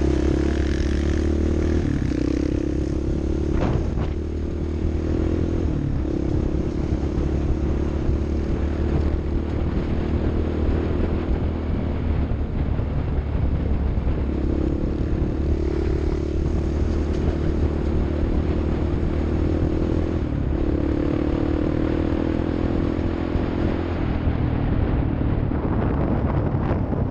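An off-road vehicle's engine running under way. Its note steps up and down every few seconds as the revs change, over a low rumble, with a few knocks and rattles.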